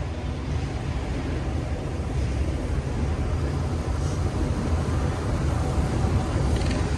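Steady low rumble of city street traffic mixed with wind buffeting the microphone, getting a little louder about two seconds in.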